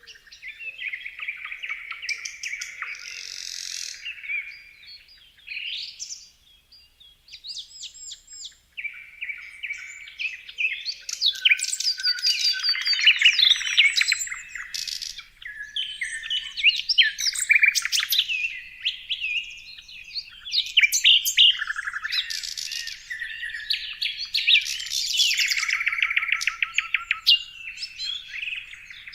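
Several songbirds singing and chirping at once, with rapid trills, whistles and twitters in quick succession and a short lull about a third of the way in.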